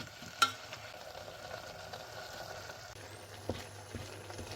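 Kimchi and pork belly sizzling in a frying pan, with a sharp ringing clink of a utensil against the pan about half a second in and a couple of lighter knocks near the end.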